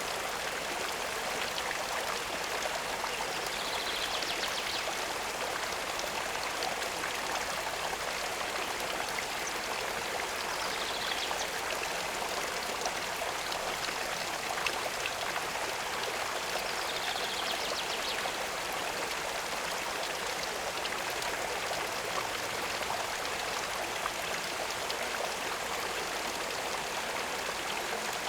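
Steady running water, a continuous stream-like rush and trickle. Three faint, brief, higher-pitched sounds rise over it about 4, 11 and 17 seconds in.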